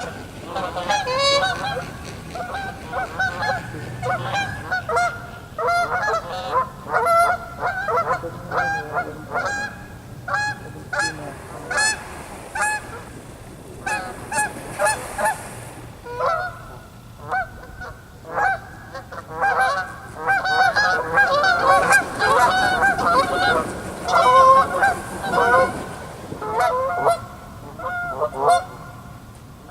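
A flock of geese honking, many calls overlapping almost without pause, thinning briefly around the middle before picking up again.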